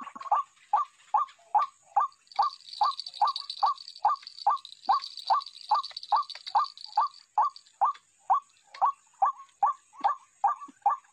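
White-breasted waterhen's repeated 'wak-wak' call, the sound used to lure the bird: short notes just under three a second, unbroken. A steady high buzz joins in from about two to seven seconds in.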